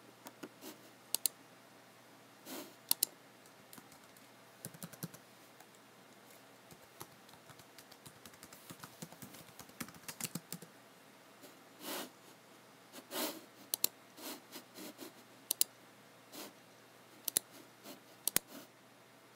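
Typing on a computer keyboard: irregular key taps, some single and some in short quick runs, with pauses between.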